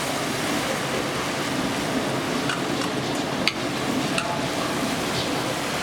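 Hot oil sizzling steadily around a batch of fried chicken in an opened broast pressure fryer, with a few light clicks near the middle.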